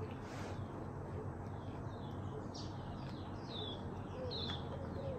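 Small birds chirping in the background: short, high, downward-sweeping chirps several times, over a steady low hum.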